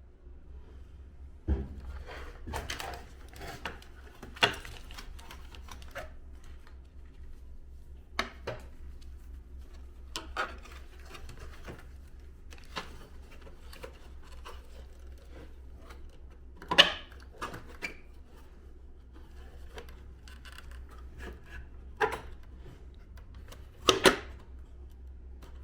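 Parts of an air-conditioner indoor unit being handled and fitted together during reassembly: scattered clicks, taps and knocks, the sharpest ones over halfway through and near the end, over a low steady hum.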